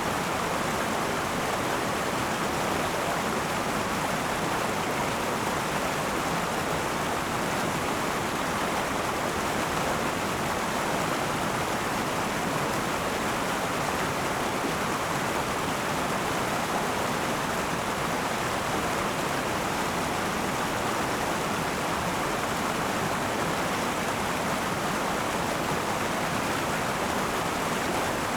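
A river flowing, a steady, even rush of water over rocks.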